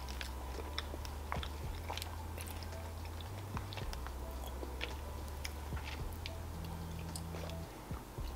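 Close-miked chewing of a Nuts chocolate bar with nougat and caramel: soft, scattered sticky mouth clicks over a low steady hum.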